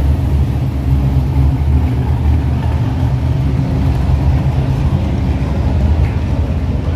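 A car engine idling close by: a steady low rumble that holds even, with no revving.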